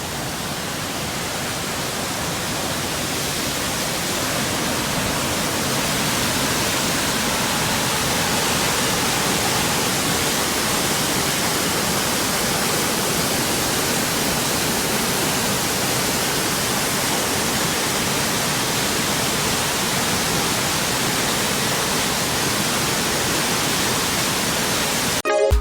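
Waterfall rushing steadily, a dense even hiss of falling water that grows slightly louder over the first several seconds.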